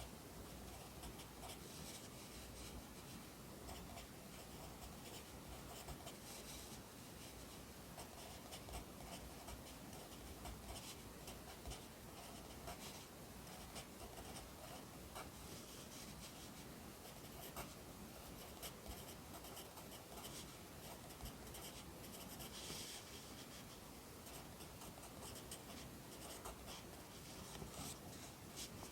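Pencil writing Korean script on paper: a quiet, continuous run of short scratchy strokes with small pauses between characters.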